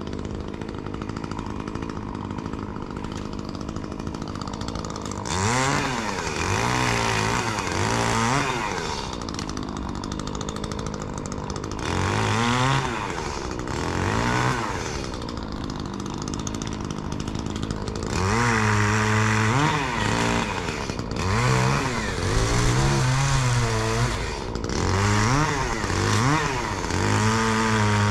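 Gas chainsaw idling, then revved in repeated bursts from about five seconds in, its engine pitch climbing and dropping back with each burst.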